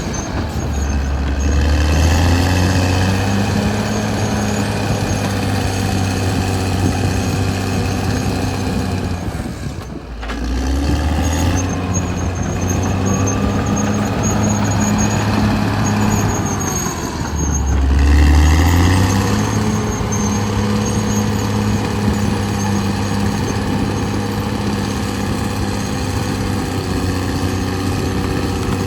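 Caterpillar D6R XL bulldozer's diesel engine running steadily while working. Its note drops and climbs back up twice, about a third of the way in and again a little past halfway.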